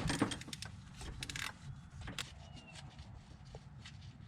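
Hand tools clicking and clinking against metal while the starter bolts are worked loose: a cluster of sharp clicks in the first second and a half, then scattered single clicks.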